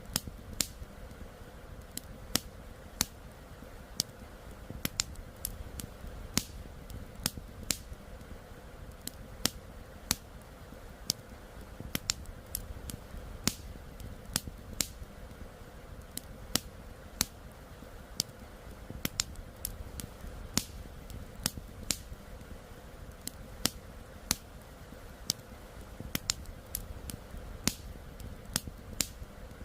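Campfire crackling: sharp, irregular pops and snaps, roughly two a second, over a steady low rushing from flowing river water.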